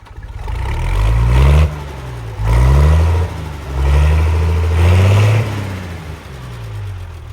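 A vehicle engine revving up three times, its pitch rising and then dropping back each time, before settling back towards idle.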